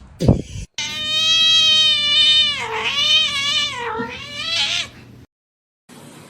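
A cat giving one long, drawn-out meow lasting about four seconds, dipping in pitch twice. It starts about a second in, after a short low thump.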